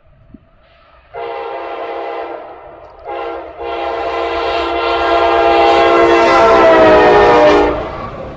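A freight locomotive's multi-chime air horn sounding three loud blasts as the train approaches on the nearest track: a blast of about a second, a short one, then a long one of about four seconds. The chord drops in pitch near the end of the long blast as the locomotive passes, under the low rumble of the train.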